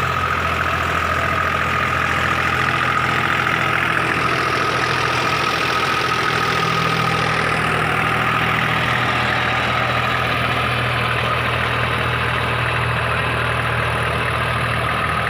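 Deutz-Fahr Agrolux 50 4WD tractor's diesel engine running steadily at an even speed, with no revving, and a thin steady high whine alongside.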